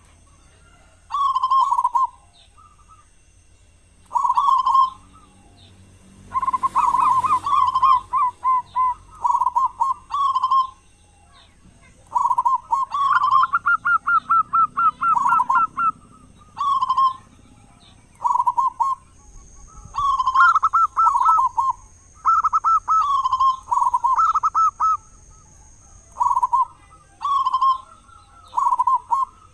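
Zebra dove (perkutut) singing its cooing song: repeated phrases of quick staccato coos, each about a second long, with short pauses between them.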